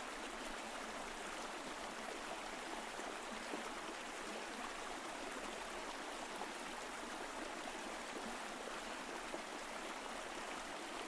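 Mountain stream flowing steadily over rocks: an even rush of water with fine trickling.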